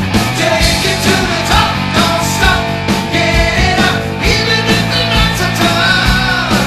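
Heavy metal rock music in an instrumental passage: steady drum strikes under a dense band sound, with a lead line that bends up and down in pitch.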